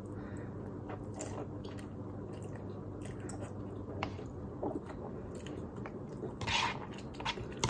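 Close-up chewing of a mouthful of spaghetti carbonara, with a few small clicks of a fork in a paper cup, and louder mouth noises twice near the end.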